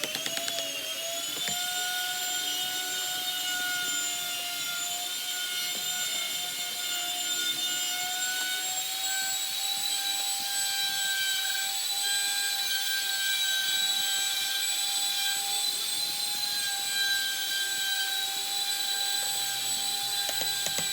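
A small high-speed electric power tool spins up and then runs steadily with a high whine.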